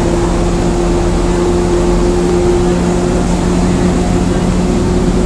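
Interior of a moving commuter train running at a steady speed: a constant rumble of wheels and running gear with a steady two-note motor hum.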